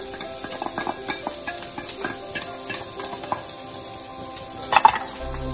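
Chopped onions sizzling in a hot metal wok while a minced aromatic is scraped in from a metal bowl with a wooden spatula, with a steady hiss and small scraping ticks. A quick cluster of sharp knocks comes near the end.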